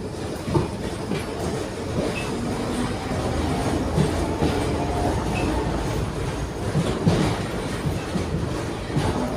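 71-631 tram running along the track, heard on board: a steady rumble of the running gear, with a few sharp wheel clacks over rail joints.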